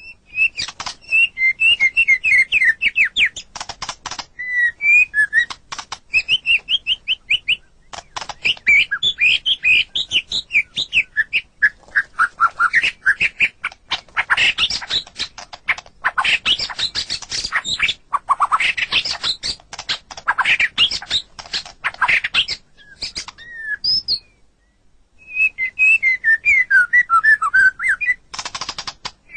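White-rumped shama (murai batu) singing a long, varied song of quick whistled notes and glides mixed with rapid harsh clicking notes, with a short break a few seconds before the end.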